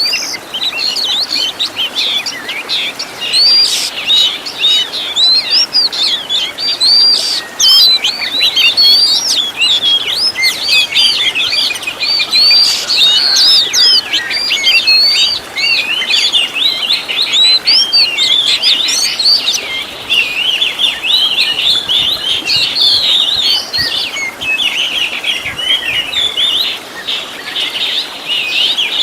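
Oriental magpie-robin (kacer) singing a long, rapid, unbroken run of varied whistles and chirps. It is a trained song full of 'isian', phrases borrowed from other birds.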